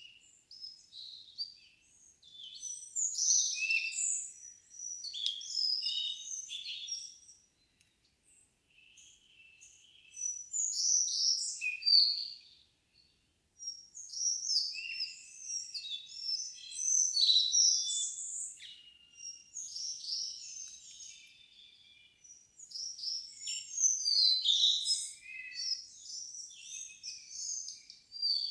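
Songbirds singing in a forest, in lively phrases of a few seconds each with short pauses between, against a still background with no wind.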